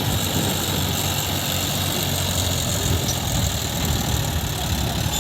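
Heavy diesel engine running steadily at low revs with an even, low hum, from the backhoe loader or the tractor at work.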